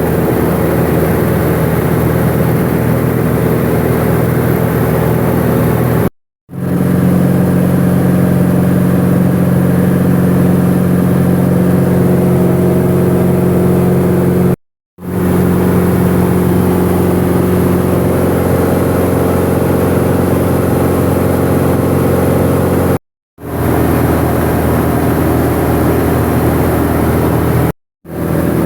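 Light single-engine piston airplane's engine and propeller running steadily, heard inside the cockpit. The sound cuts out to silence for a moment four times, where separate clips join.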